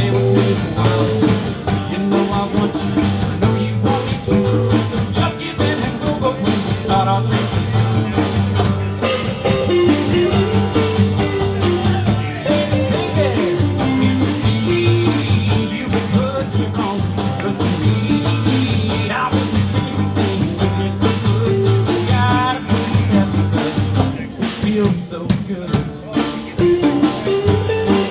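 Live blues band playing: drum kit and bass keeping a steady groove, with lead lines bending in pitch over the top.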